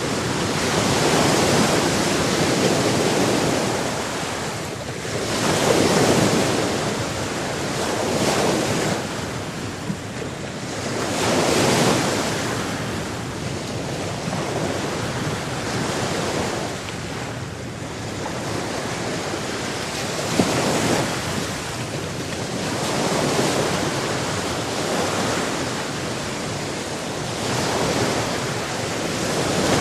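Sea waves washing in, each swelling and falling back about every five to six seconds over a steady hiss of water.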